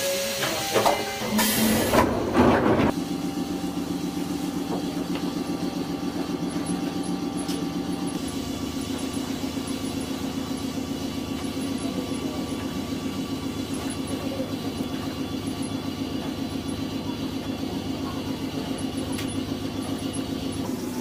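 Choshi Electric Railway 2000-series train, its machinery running steadily with a fast, even pulse. Loud, jumbled clatter fills the first three seconds.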